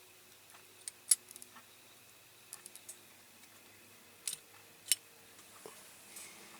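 Scattered light clicks and taps of small parts and tools being handled on a workbench, with a sharper click just after a second in and two more around four and five seconds in.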